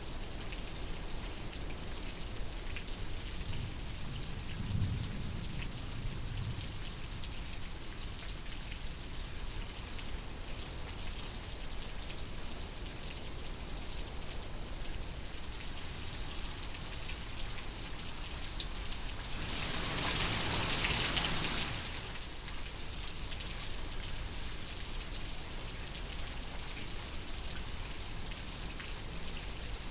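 Steady rain, with a low rumble of distant thunder about five seconds in. About twenty seconds in comes a louder rushing burst lasting about two seconds.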